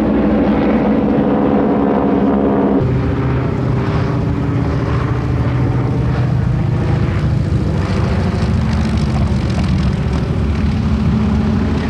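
Propeller airplane engine running loudly with a steady drone that shifts abruptly to a lower pitch about three seconds in.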